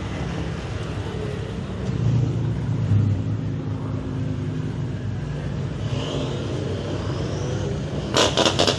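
Car engine running at low revs with a steady rumble that swells briefly about two to three seconds in, and a faint rising whine later. Near the end comes a quick string of sharp crackles.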